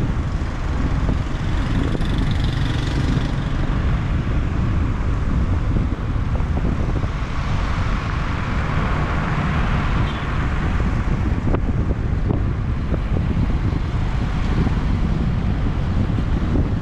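Motorbike riding through city traffic: a steady rumble of engine, tyres and wind on the microphone, swelling a little in the middle as passing traffic gets louder.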